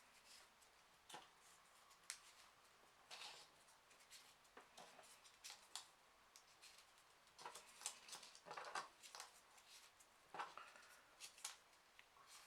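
Faint, scattered rustles and small clicks of folded printer paper as 3D origami pieces are handled and slotted one by one onto a row of the model.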